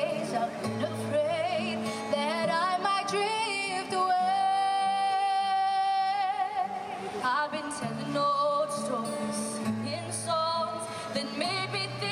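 Music: a woman singing a slow song over a bass and instrumental accompaniment, holding one long high note from about four to seven seconds in.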